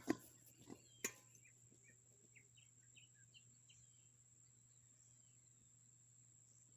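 Quiet outdoor ambience: scattered short, faint bird chirps over a steady high-pitched whine, with two sharp clicks at the start and about a second in.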